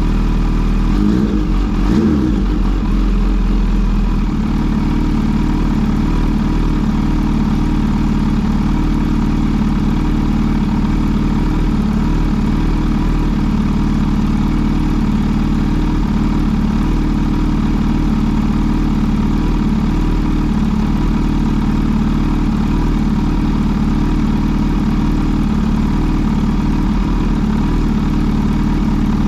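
Kawasaki Z H2 SE's supercharged 998 cc inline-four engine idling; its pitch wavers briefly in the first few seconds, then it settles into a steady idle.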